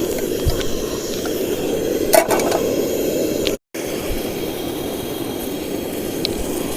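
Camping cook-stove flame running with a steady roar, with a few light clinks of the pot; the sound cuts out completely for a moment about halfway through.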